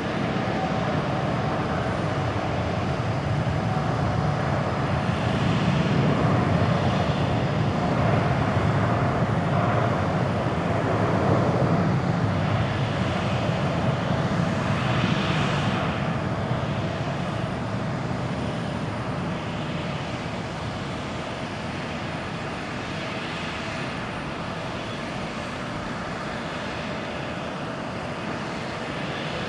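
Boeing 787-8's Rolls-Royce Trent 1000 jet engines at takeoff power, a dense roar with a steady whine running through it. The roar builds to its loudest about a third of the way in, then slowly fades as the aircraft climbs away.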